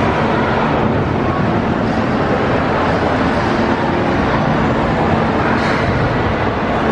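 Loud, steady rumbling din of an indoor amusement park with its rides running.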